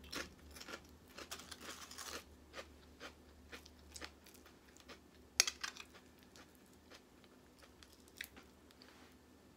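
Quiet mouth sounds of someone chewing crunchy Quest protein chips with chicken salad, with scattered small crackly clicks and a sharper click about five seconds in, fitting a fork scraping and tapping a plate.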